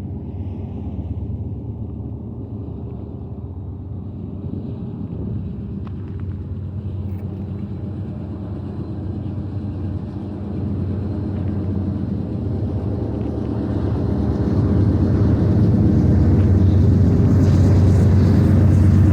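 Diesel-electric freight locomotives, a GE Dash 9-44CW leading, running with a steady low engine drone that grows steadily louder as the train approaches, and a hiss building in the upper range over the last few seconds.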